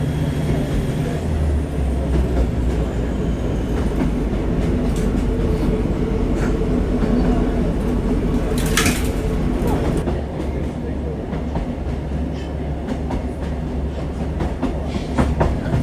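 Diesel passenger train running, heard from inside the carriage: a steady low engine drone and rail rumble. A brief high-pitched squeal comes about nine seconds in, and a few sharp clicks come near the end.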